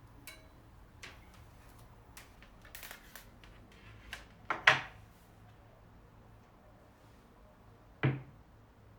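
Small objects being handled on a hard surface: a run of light clicks and taps, a louder sharp knock about halfway through, and another knock near the end.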